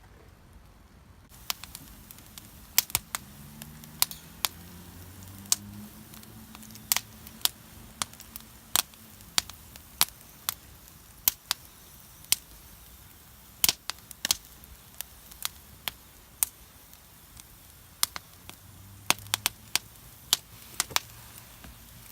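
Campfire crackling: sharp, irregular pops of burning wood and charcoal, about one or two a second.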